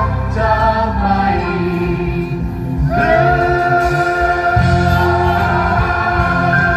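A song performed by a group of voices with instrumental backing, singing long held notes in chords; a new sustained chord comes in about three seconds in.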